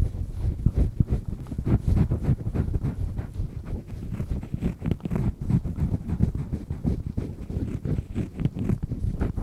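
Double-disc metal ear pick scraping firmly around an ear canal, close to the microphone: a rapid, uneven run of scratching and rubbing strokes.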